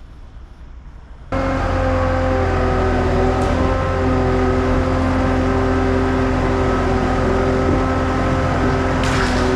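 Skid steer engine running steadily at high revs, cutting in suddenly about a second in, with a brief hiss near the end.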